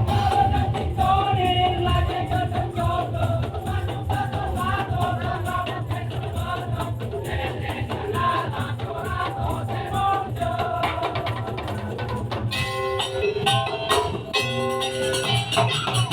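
Madurese daul (tong-tong) music ensemble playing: heavy drumming under a wavering melody line, with rattling percussion. About three-quarters of the way through, the music changes to brighter, steadier pitched percussion tones and sharper strikes.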